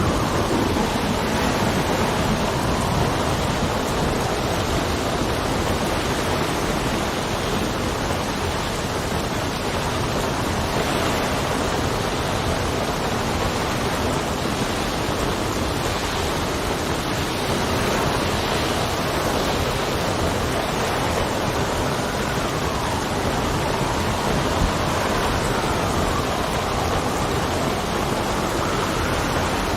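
Steady rain and wind, a dense, even hiss. A faint whistle of wind falls in pitch at the start and rises again near the end.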